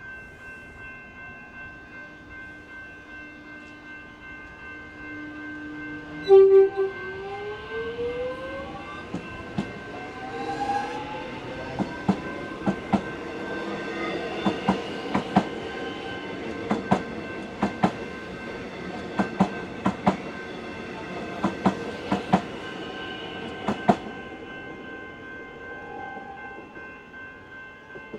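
Level crossing bells ringing while a Melbourne suburban electric train passes: one short horn blast about six seconds in, then the motors whine and rise in pitch as the train gathers speed, then a long run of wheel clicks over the rail joints that fades near the end.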